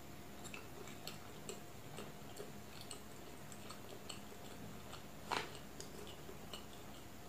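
Eating sounds: scattered soft wet clicks of chewing a mouthful of egg curry and rice, with one louder wet smack about five seconds in.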